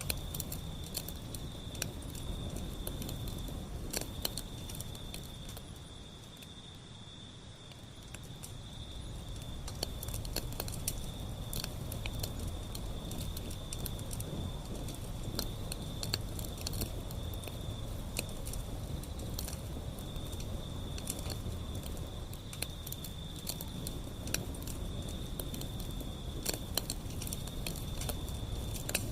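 Wood fire burning, with frequent sharp crackles and pops over a low rumble, and a steady high-pitched tone throughout. It grows softer for a couple of seconds about six seconds in.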